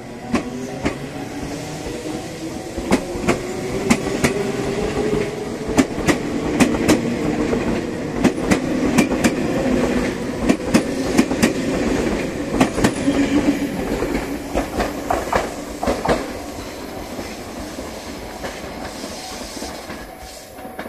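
Tobu 200-series Ryōmō limited express train accelerating past the platform: rapid wheel clicks over the rail joints with a rising motor whine. The clicking dies away after about 16 seconds, leaving a fading rumble.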